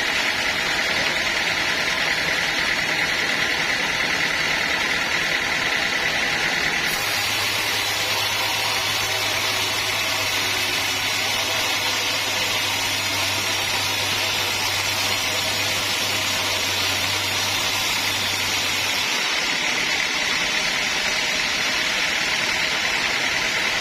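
Sawmill machinery running steadily with a constant mechanical drone. About seven seconds in a low hum joins it, and it drops away again about five seconds before the end.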